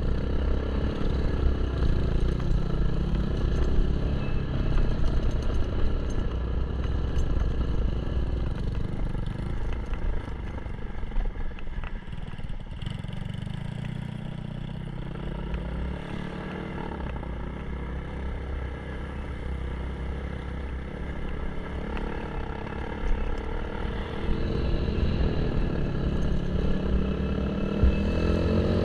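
Kawasaki KLX 150 dirt bike's single-cylinder four-stroke engine running as the bike is ridden. It eases off for a long stretch in the middle and builds again near the end, the revs climbing in the last second or so.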